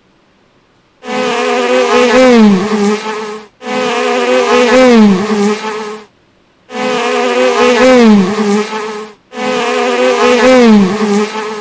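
Bee buzzing, heard as four bursts of about two and a half seconds each, with a short gap between them and a dip in pitch within each burst.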